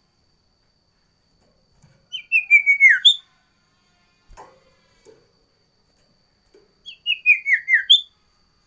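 Sirtu songbird singing two short, loud phrases about five seconds apart. Each is a quick run of whistled notes stepping down in pitch and ending on one sharp, higher note.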